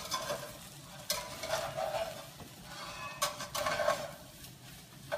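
Breaded okra frying in coconut oil in a stainless steel skillet, sizzling while a utensil stirs it. The stirring comes in two louder scraping spells, about a second in and again after three seconds.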